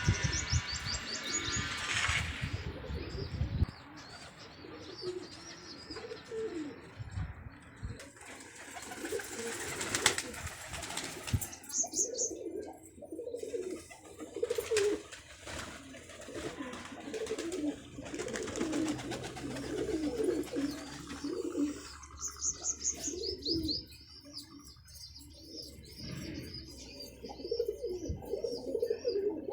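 Domestic pigeons cooing over and over, with a few short runs of high chirping now and then.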